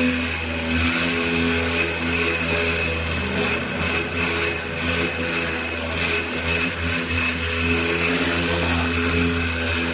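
A power tool running steadily, with a constant low hum and a high whine throughout.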